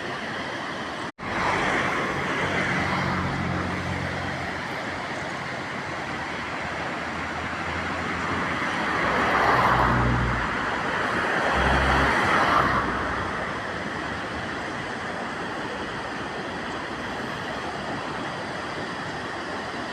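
Mountain river rushing steadily, with a brief dropout about a second in. A low droning rumble joins the water, swelling twice in the middle and fading out a little after that.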